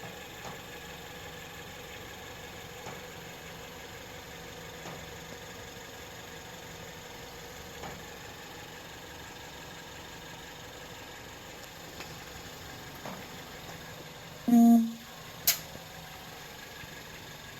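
A car making a steady mechanical hum with faint occasional ticks. Near the end comes one short, loud, pitched burst lasting about half a second, then a single sharp click about a second later.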